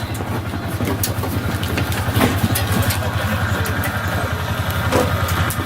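Motor vehicle engine idling with a steady, low pulsing rumble, played back from a puppy sound-habituation recording.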